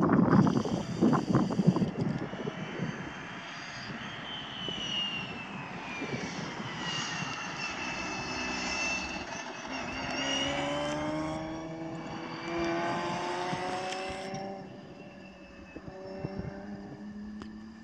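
Car engine accelerating on the track, its pitch rising about ten seconds in and again near the end. Wind gusts on the microphone at the start.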